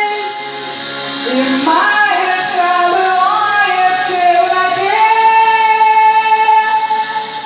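Music: a singer holding long, drawn-out notes over the accompaniment, sliding up into a new note about two seconds in and again about five seconds in.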